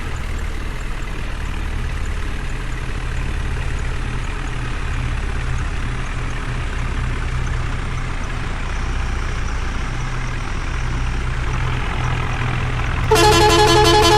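Heavy diesel engine of a JCB backhoe or tractor idling steadily. Near the end a loud vehicle horn sounds and is held.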